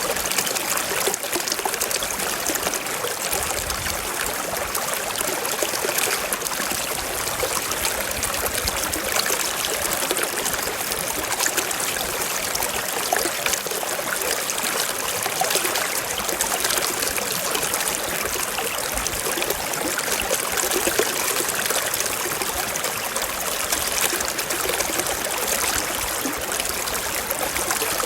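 Forest stream flowing over rocks: a steady trickling and babbling of running water.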